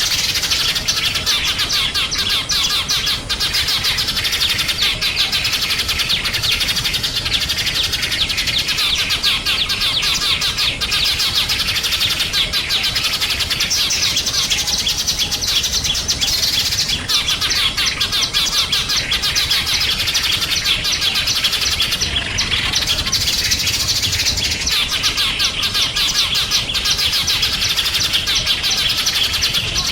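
A dense chorus of small songbirds: many high chirps and twitters overlapping without a break.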